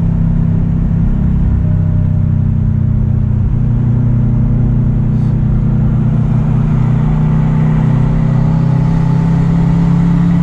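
Turbocharged Mazda Miata's engine and road noise heard from inside the cabin, running steadily at highway speed, the engine note climbing slightly in the last few seconds.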